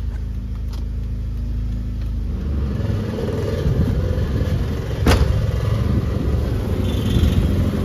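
Nissan Sentra engine idling steadily. About two and a half seconds in, the cabin blower fan comes on at full speed, and its air rush joins the engine as an electrical load on the alternator during a charging test. A single sharp click about five seconds in.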